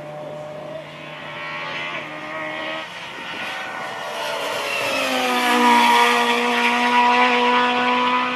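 Rally car engine running at high revs, getting louder through the first half and then holding a steady, loud high note, with a slight dip in pitch around five seconds in. A quieter engine note sounds in the first few seconds.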